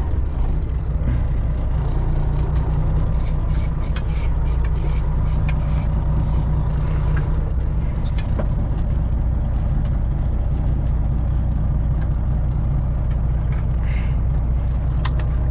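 A semi truck's diesel engine running steadily at low speed while the truck is maneuvered to line up with a loading dock. A faint, regular ticking comes in for a few seconds in the middle.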